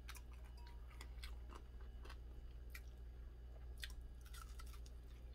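Quiet chewing of fried fish, with faint scattered clicks and small crunches as the fish is bitten and picked apart by hand.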